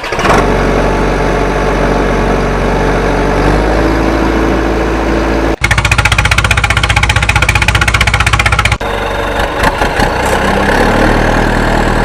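Heavy vehicle engine running, heard in edited segments. It runs steadily, then after an abrupt cut about five and a half seconds in it switches to a fast, even chugging. Near nine seconds it cuts again to a different steady engine sound.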